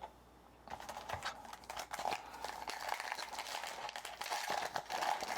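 Foil trading-card pack wrapper being torn open and crinkled. The dense crackling starts just under a second in and keeps going.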